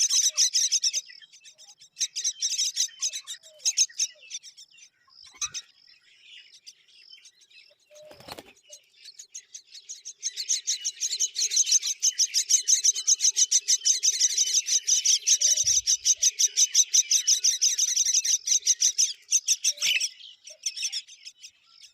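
Baby myna birds chirping in fast, repeated runs of high calls: a short burst at the start, another a couple of seconds in, then a long unbroken run from about ten seconds in that stops shortly before the end.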